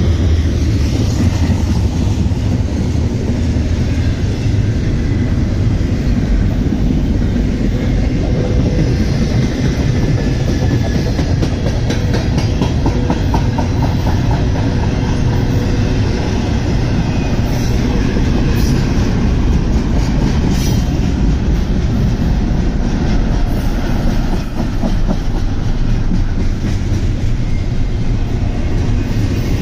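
Double-stack intermodal freight train passing at speed: a loud, steady rumble of railcars, with clusters of short clicks from the steel wheels on the rails.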